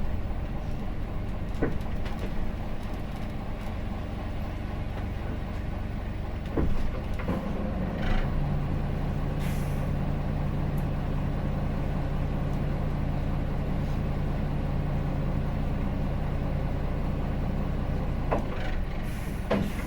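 Hino Blue Ribbon City bus's diesel engine idling steadily while standing, heard from inside the cabin, with short hisses of compressed air, from the air brakes or doors, about halfway through and again near the end.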